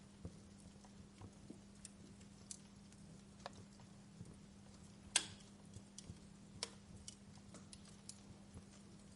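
Fireplace crackling faintly: irregular small pops and snaps, with one louder pop about five seconds in, over a steady low hum.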